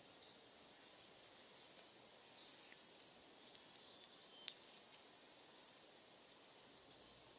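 Wood fire burning with a faint hiss and scattered small crackles, and one sharp pop about halfway through.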